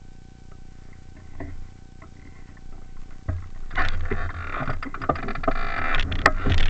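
Wind rushing over the microphone with knocks and rattles, starting about three seconds in and growing louder as the ride gets going; before that only a few faint clicks.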